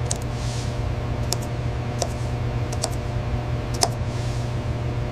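A steady low hum with a few sharp, irregular clicks, about six in all, and a couple of soft swishes.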